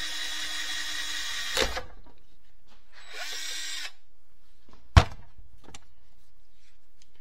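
Power drill running steadily, drilling into the transmission's rear seal, stopping about a second and a half in; a short second burst of drilling follows around three seconds in. A single sharp knock near five seconds in is the loudest sound.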